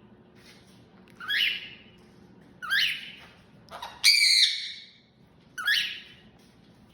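Pet bird calling four times, about one and a half seconds apart: short, loud calls that sweep upward, the third one the loudest and longest.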